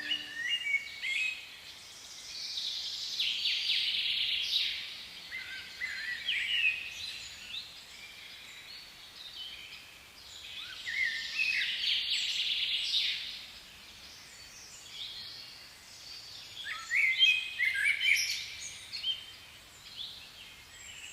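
Garden birds singing: three bouts of chirping, trilling song a few seconds apart, with scattered calls between, the loudest bout near the end.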